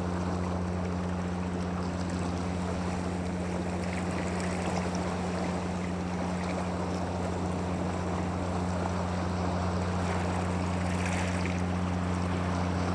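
Steady rushing, water-like noise over a constant low hum, as of a motor running.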